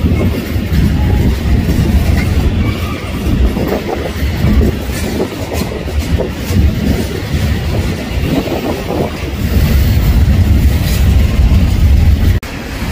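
Freight train rolling by close at hand: a heavy, steady rumble of cars on the rails with clattering wheels. It breaks off for a moment near the end.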